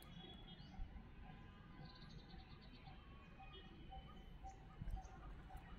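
Faint birdsong: scattered short high chirps and a quick run of repeated notes about two seconds in, over a low rumble. A soft knock comes about a second in and another near the end.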